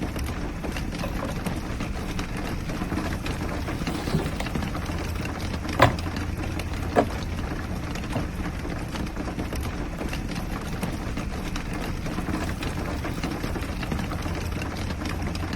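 Steady rain falling on the roof of a small camper, with a few sharper drop clicks about four, six and seven seconds in.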